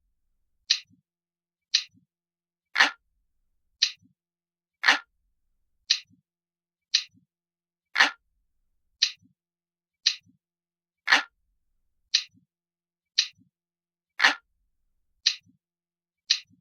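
Analog clock ticking, one sharp tick about every second. Every third tick or so is deeper and fuller than the rest.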